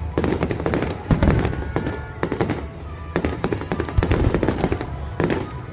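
Fireworks display: shells bursting in quick succession, a dense run of bangs and crackles.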